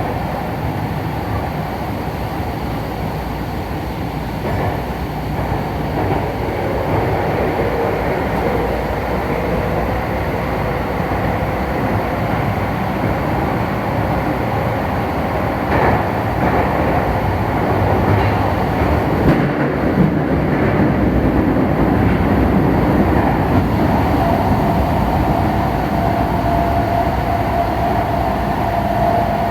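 Electric commuter train running, heard from inside the leading car: a steady rumble of wheels on rail that grows a little louder, with a few short knocks about halfway through. A steady tone, likely from the traction motors, joins near the end.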